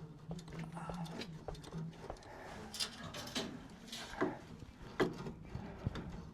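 Scattered clicks, knocks and metallic taps from hand tools working on a car's steering track rods, over a faint low hum.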